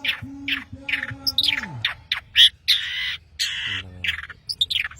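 Long-tailed shrike (cendet) singing busily: a rapid string of short, sharp chirps and whistles broken by two longer, harsh rasping notes midway. A low wavering pitched sound runs underneath for the first two seconds.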